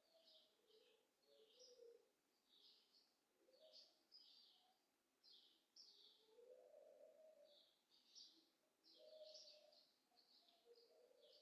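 Faint birdsong: a string of short, high chirps, with some lower notes in between.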